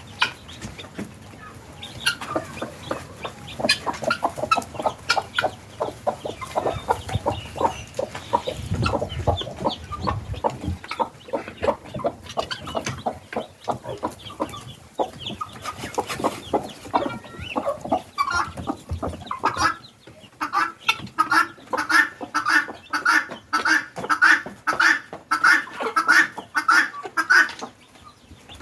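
Helmeted guineafowl calling: a dense chatter of many overlapping short calls, settling after about twenty seconds into a regular series of about two calls a second.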